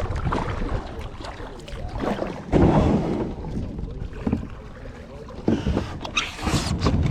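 Kayak paddling on a pond: irregular swishes and splashes of water, the strongest about two and a half seconds in, over a low wind rumble on the microphone.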